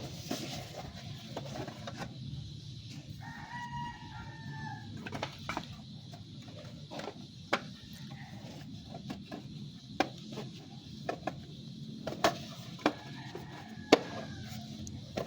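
A rooster crowing twice, once about three seconds in and again near the end, amid scattered sharp clicks and knocks from computer parts being handled during reassembly.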